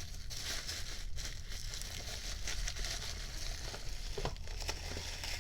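Packing material rustling and crinkling irregularly as an item is unwrapped and lifted out of a shipping box, with a few light clicks and ticks, one sharper about four seconds in.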